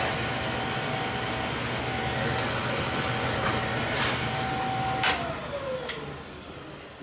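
Beckett oil burner running with a steady high-pitched whine over the roar of its blower, which the technician takes for a failing fuel pump. About five seconds in it is shut off with a click, and the whine slides down in pitch as the motor spins down.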